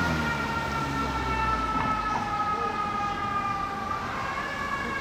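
Fire engine siren wailing: the pitch sweeps up, slides slowly down, and climbs again about four seconds in.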